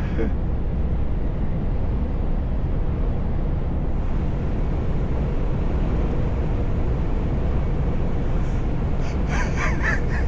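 Steady low rumble of a truck's engine and road noise, heard from inside the cab while driving. A brief wavering pitched sound comes near the end.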